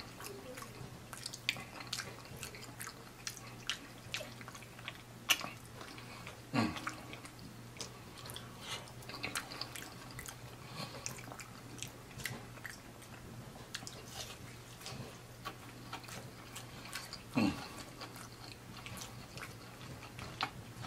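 Close-miked chewing and biting of fried catfish nuggets and macaroni and cheese: a run of short wet smacks and crunches, over a steady low hum.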